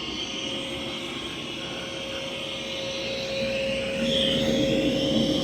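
Mova V50 robot vacuum running on carpet: a steady motor whine with a hiss of suction, growing louder about four seconds in.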